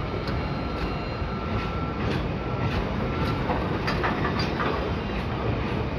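Container freight train wagons rolling past at steady speed: a continuous rumble with irregular clacks from the wheels over the rail joints. A faint high thin whine comes and goes.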